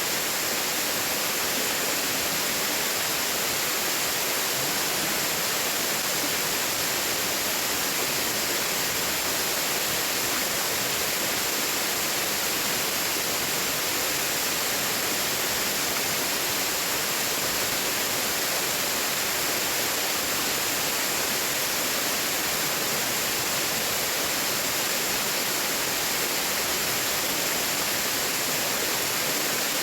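Steady rush of water from the top tier of Erawan Falls, an even, unbroken roar with no change.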